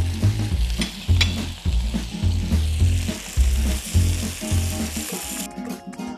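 Pieces of lamb sizzling as they fry in a pan and are turned, over background music with a pulsing bass. The sizzling cuts off suddenly about five and a half seconds in, leaving only the music.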